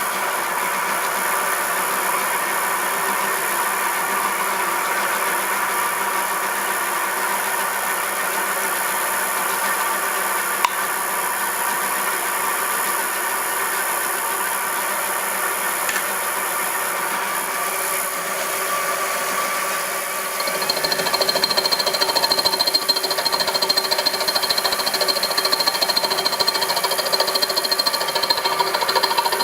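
Homemade milling machine running with a steady motor and drive hum. About twenty seconds in it gets louder and turns rough and rattly, with a high whine added on top.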